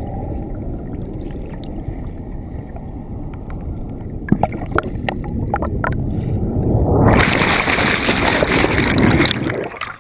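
Turbulent river water rushing at a small waterfall, heard muffled underwater, with scattered sharp clicks. About seven seconds in it turns into a louder, hissing rush of churning water.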